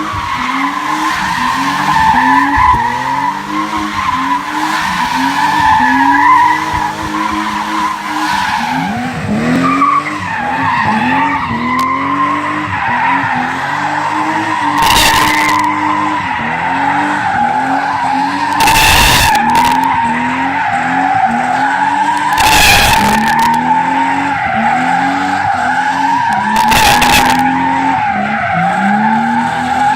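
BMW E30's M30B35 3.5-litre straight-six revving up and down over and over while its rear tyres squeal steadily through drift donuts. In the second half a loud rush of noise comes about every four seconds.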